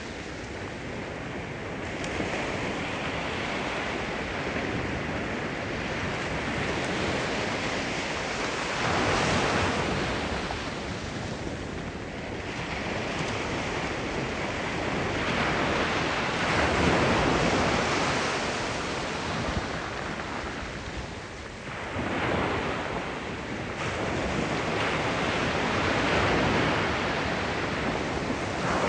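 Sea waves breaking and washing on the shore, the surf swelling and falling back every few seconds, with some wind buffeting the microphone.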